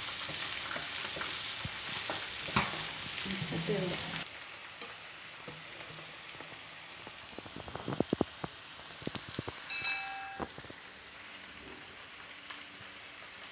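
Sliced onions sizzling in hot oil in a non-stick frying pan while a wooden spatula stirs them. The sizzle drops suddenly to a quieter frying hiss after about four seconds, with a few sharp clacks of the spatula around eight seconds in.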